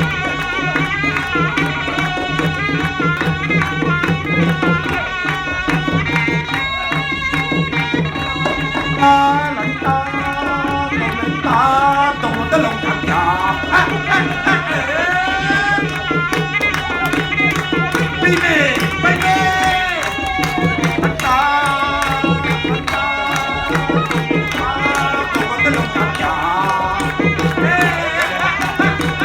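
Khmer traditional music for the peacock dance: a sliding, ornamented melody over a steady low drone, with hand drums keeping a regular beat.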